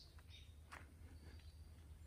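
Faint wild birds chirping, a few short high calls near the start and a thin high note in the middle, over a steady low rumble. One sharp click a little before the middle.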